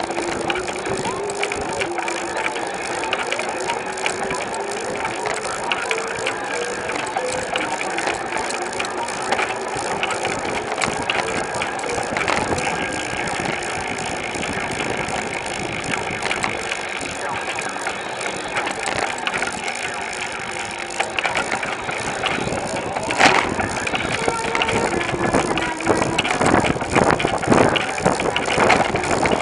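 Bicycle riding along in a large group ride: steady tyre, drivetrain and wind noise with a freewheel ticking now and then, and other riders' voices mixed in. It gets louder and busier with sharp clicks over the last few seconds.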